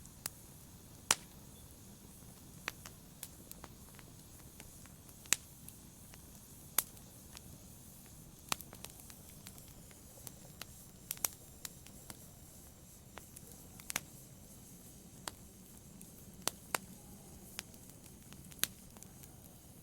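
Wood fire burning in a fireplace, crackling: irregular sharp pops and snaps, about one a second, over a soft low rumble of the flames.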